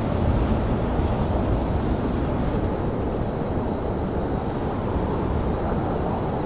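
Steady low rumble of railyard ambience, with a faint steady high-pitched whine over it.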